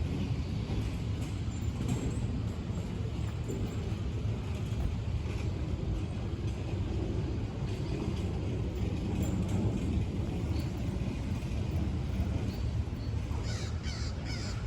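Steady low rumble of city street noise, like passing traffic, with a few brief higher-pitched sounds near the end.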